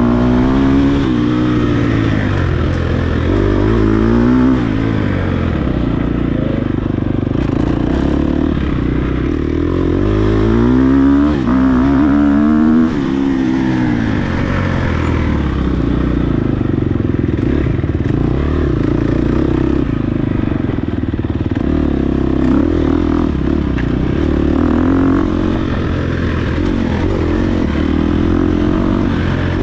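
Dirt bike engine revving hard and easing off over and over, its pitch climbing and dropping as the rider works the throttle and gears, loudest and highest about eleven seconds in.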